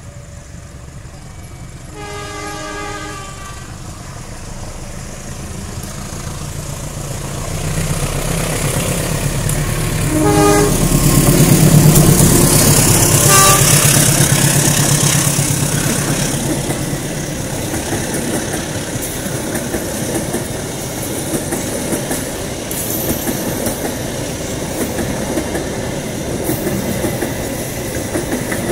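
Diesel-hauled passenger train passing close by. Its multi-tone horn sounds one longer blast about two seconds in, then two short blasts a few seconds apart. The locomotive's deep engine rumble peaks as it goes by, then the coaches roll past with a steady clickety-clack of wheels over rail joints.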